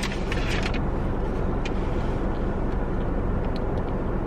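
Steady low rumble of an idling car, with a few light clicks in the first second.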